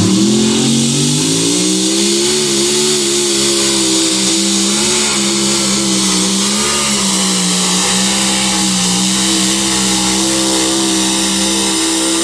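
Competition pulling tractor's engine at full throttle during a pull. Its pitch climbs over the first two seconds, then holds high and nearly steady with small dips as it drags the sled.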